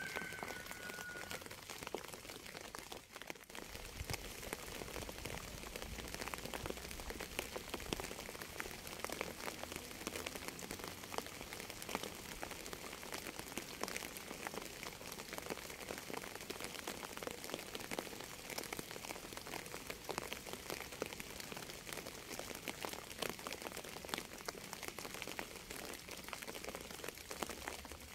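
Rain falling steadily: a dense patter of many small drops over an even hiss. A brief high whistle-like tone sounds right at the start.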